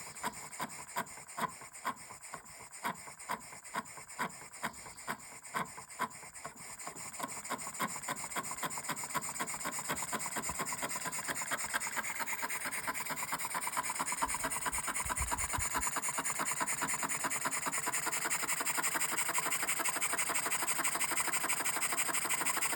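Small brass oscillating steam engine running, its exhaust puffing about one and a half times a second at first on about 3 psi. After about seven seconds it gets louder and speeds up to a rapid, steady chuffing as the supply pressure is raised toward 5 psi.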